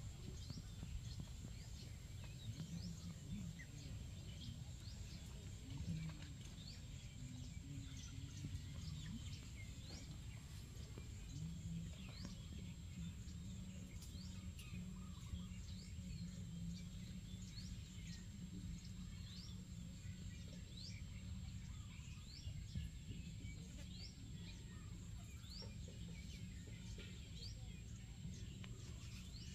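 Outdoor ambience of small birds chirping: many short, high, upward-sweeping chirps scattered throughout, over a low steady rumble.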